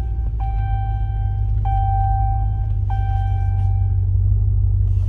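Truck's seatbelt warning chime ringing three more times, about every second and a quarter, each ding fading, over the steady low rumble of the truck running inside the cab. The chime stops about four seconds in: the driver's seatbelt is unbuckled.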